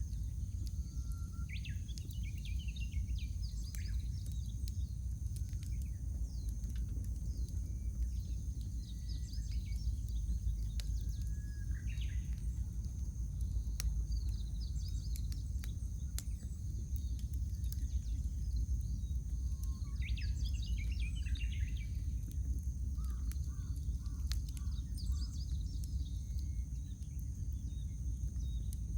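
Wood fire burning with a steady low rumble and scattered sharp crackles and pops. Small birds call and chirp on and off over it, with a quick run of notes about twenty seconds in.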